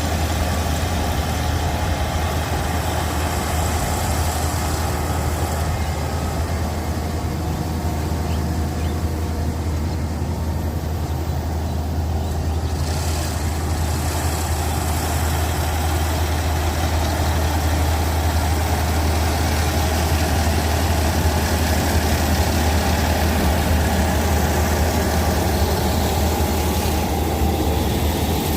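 An engine running steadily with a low drone and no change in speed or load.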